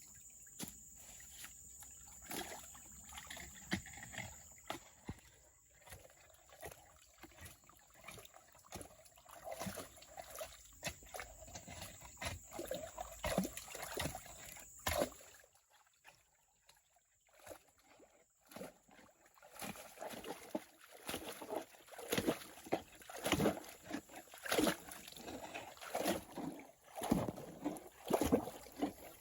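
Water sloshing and splashing with many irregular knocks. A steady high whine runs underneath and stops about halfway, followed by a short lull before the splashing picks up again.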